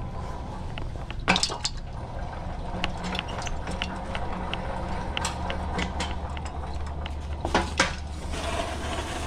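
Manual pallet jack being handled and pumped: metal clanks and rattles, loudest twice, about a second and a half in and again near the end, over a steady low hum.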